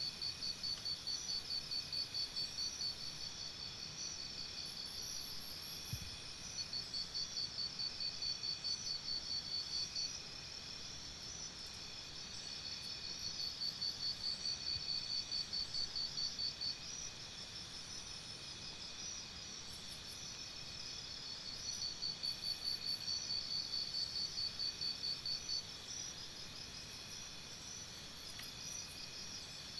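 Crickets chirping in rapid, high trills that come in spells of a few seconds and then ease off, over a fainter steady insect chirring.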